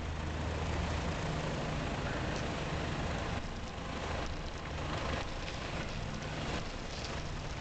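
Chrysler PT Cruiser's engine and exhaust running steadily as the car drives, a low hum with road noise.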